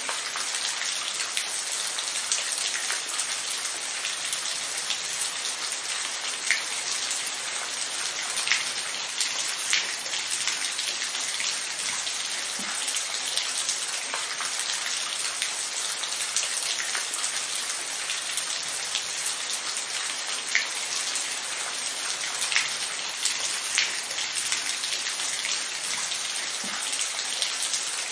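Steady rain falling, an even hiss with scattered individual drops ticking sharply now and then.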